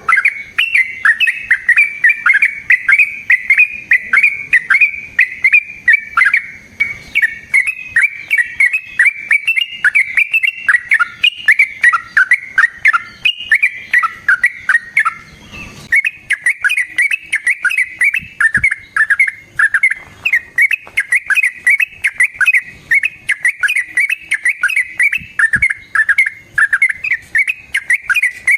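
Yellow-vented bulbul (trucukan) singing a long, rapid run of bubbling, chattering notes with hardly a pause, breaking off briefly about halfway and then going straight on.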